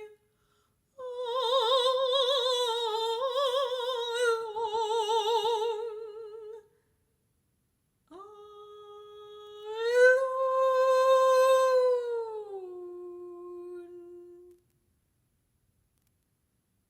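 A solo classical voice singing long wordless notes with wide vibrato in two phrases. The second phrase swells upward, then falls and settles on a lower held note that dies away a couple of seconds before the end.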